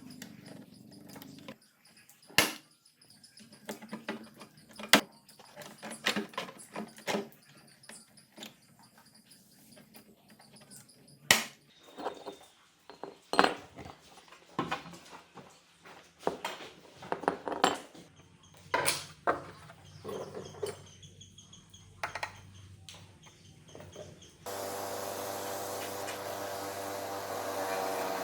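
Metal parts and hand tools being handled, a scattered series of sharp clicks, clinks and knocks. A steady machine noise with a hum starts near the end.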